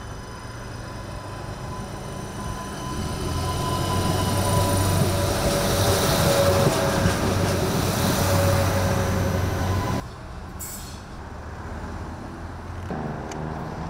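Adelaide Metro 3000-class diesel railcar passing close by, its engine and wheels growing louder to a peak about six seconds in, with a thin steady whine over the rumble. The sound drops suddenly about ten seconds in to the quieter hum of a distant railcar's engine.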